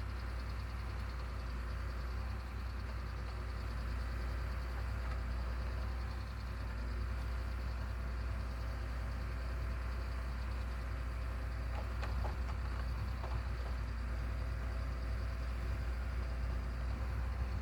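An engine running steadily with a low rumble, with a few faint clicks a little past the middle.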